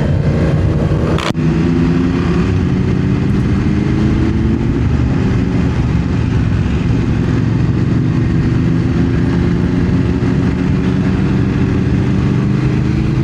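BMW motorcycle engine running steadily under way, with road and wind noise. A short sharp click with a brief dip comes about a second in, and the engine note rises a little near the end.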